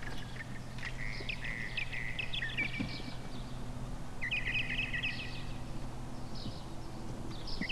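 Birds singing in short chirping trills, a few phrases with pauses between them, over a steady low hum.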